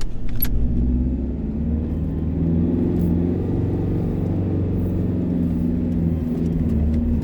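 Vehicle engine running steadily under way, a low continuous drone whose pitch shifts slightly.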